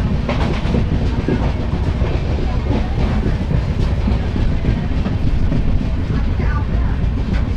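Passenger express train running along the track: a steady low rumble of the coach with occasional clicks from the wheels.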